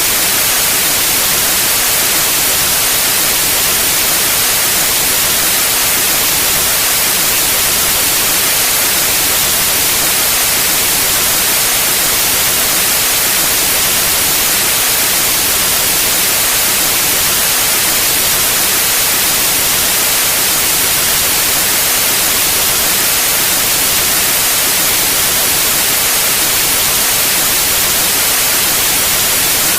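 Pure white noise: a steady, even hiss, brightest in the high frequencies, holding at one level throughout.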